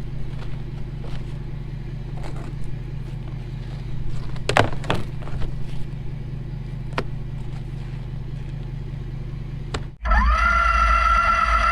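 Ford 6.7 diesel pickup idling with a steady low hum, with a cluster of sharp knocks and clatter about halfway through and single clicks later. Near the end the sound cuts to a louder whine that rises in pitch and then holds steady.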